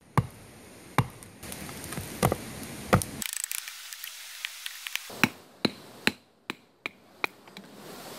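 Single-bevel Japanese nata hatchet chopping into firewood: a series of about a dozen sharp wooden strikes at uneven intervals, with a quieter stretch of small clicks partway through.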